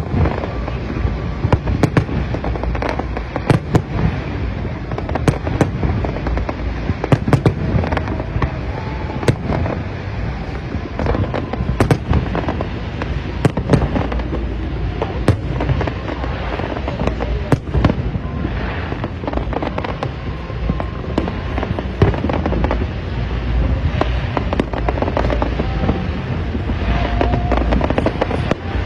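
Aerial fireworks display: a continuous run of bangs, booms and crackles, several every second.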